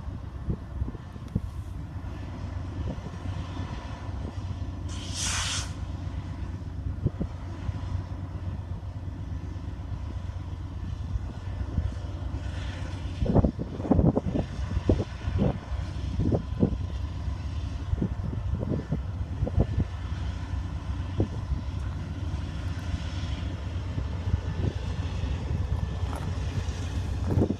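Freight train rolling by with a steady low rumble, and a run of sharp knocks and clanks partway through.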